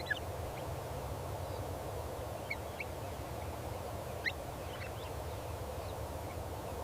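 A few short, scattered bird calls, each a quick upward flick, over a steady low rumble of outdoor ambience.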